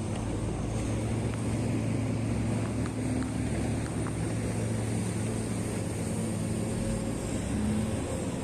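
Heavy diesel earthmoving machine running steadily, a constant low engine drone.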